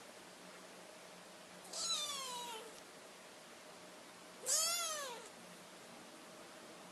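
A kitten meowing twice: thin, high calls each under a second long, the first falling in pitch about two seconds in, the second rising and falling about four and a half seconds in.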